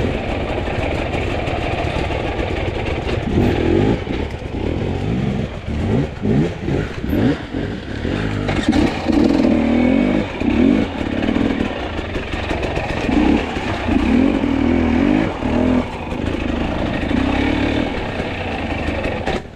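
Two-stroke enduro dirt bike engine revving in repeated throttle bursts: quick short blips about five seconds in, then longer revs that rise and fall in pitch. The sound cuts off sharply near the end.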